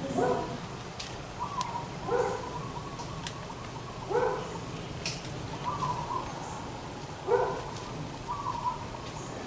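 A bird calling repeatedly: short pitched notes about every two seconds, with a few sharp high ticks between them.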